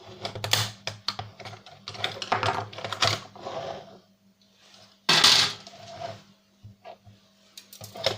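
Plastic parts of a DVD player's optical drive assembly clicking, creaking and scraping as it is pried loose from its housing, with a run of quick irregular clicks, then a louder half-second scrape about five seconds in and a few scattered clicks after.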